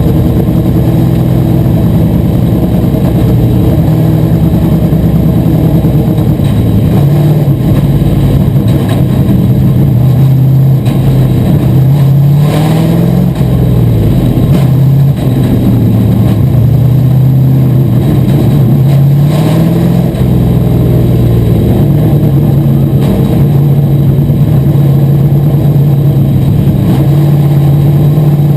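Asphalt modified race car's V8 engine running hard under racing load. Its pitch dips twice as the driver lifts off for the corners, then climbs back up as he gets back on the throttle.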